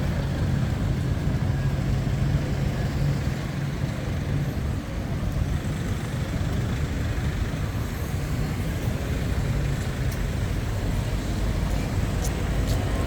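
Road traffic with queued buses and cars, engines giving a steady low rumble, with a few faint clicks near the end.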